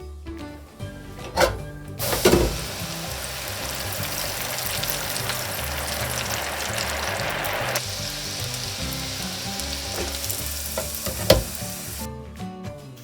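Boiled, flour-dusted macaroni deep-frying in hot oil: a steady sizzle that starts about two seconds in, eases a little past halfway, and cuts off about a second before the end. A few sharp knocks come just before the sizzle starts and near its end.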